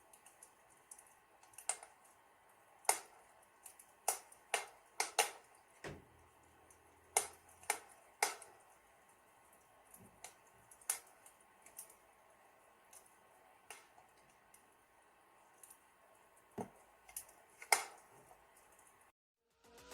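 Wood fire in a fireplace crackling: scattered, irregular sharp pops and snaps, a few each second at most, over a faint steady background. The sound cuts out completely shortly before the end.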